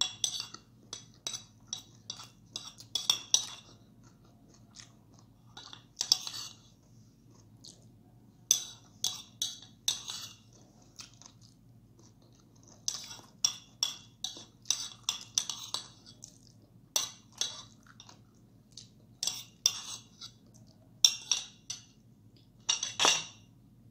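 A person chewing and crunching food, with a few clinks of cutlery on dishes, in spells broken by short pauses.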